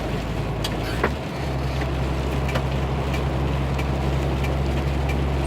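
Truck engine droning steadily as heard inside the cab, with scattered sharp ticks such as rain hitting the windshield. About a second in there is a click, and the engine's low hum changes to a stronger, steadier drone.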